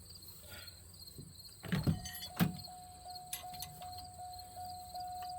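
Crickets chirping steadily. Two sharp knocks come about two seconds in, and after them a steady tone sets in that pulses about two and a half times a second.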